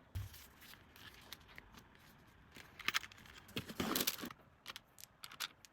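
Light rustling and crinkling of plastic packaging with small clicks as small packaged items are handled and placed, busiest about three to four seconds in.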